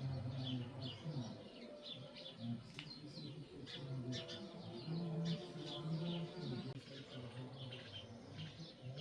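Small birds chirping repeatedly, many short high chirps overlapping one another.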